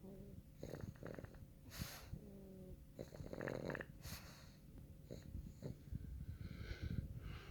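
Sleeping pug snoring: a run of irregular, raspy snorts and wheezy breaths, about six in the stretch.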